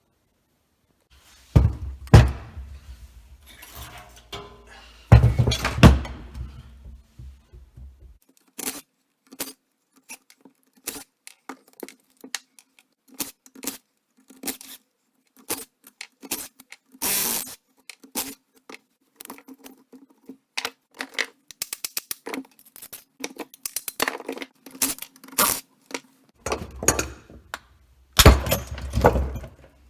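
Metal parts being knocked apart, with irregular clanks, clinks and heavier thuds from taking apart scrap alternators, air-conditioning compressors and a water pump. The heaviest thuds come in the first few seconds and again near the end.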